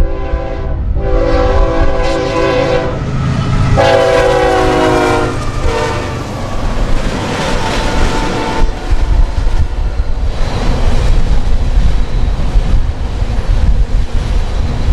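Passing train: a locomotive's air horn sounds a chord in several blasts, with short breaks about a second in and again near three seconds, the last blast ending about five and a half seconds in. Steady rumble and wheel clatter of the train running by follow.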